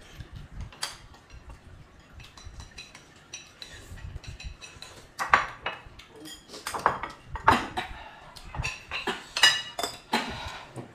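Eating utensils clicking and clinking against bowls and plates during a meal, with several louder clatters in the second half, some briefly ringing.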